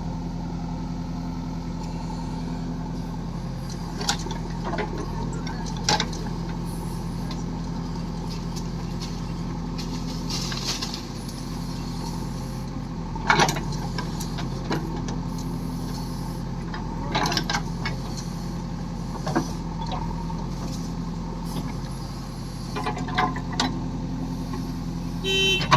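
Diesel engine of a farm machine running steadily at an even speed, with a few sharp knocks and clanks scattered through.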